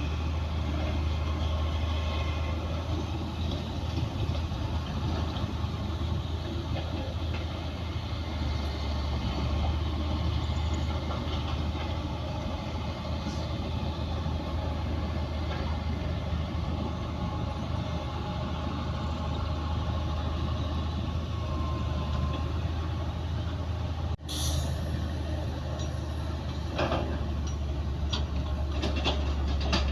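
Heavy diesel engines of earthmoving machines running steadily, a bulldozer and dump trucks, with a constant low drone. The sound breaks off for an instant late on, and a few short metallic clanks follow near the end.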